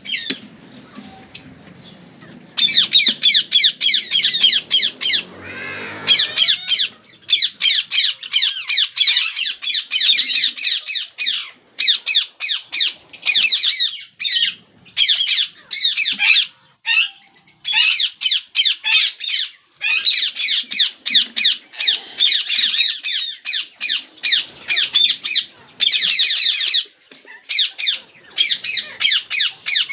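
Yellow ringneck parakeets squawking, rapid harsh screeches in bouts of a few seconds with short breaks, starting about two seconds in.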